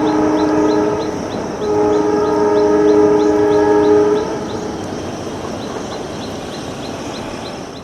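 Metre-gauge diesel locomotive sounding its two-tone horn: a short blast, then a longer one of about two and a half seconds, over the steady rumble of the train running.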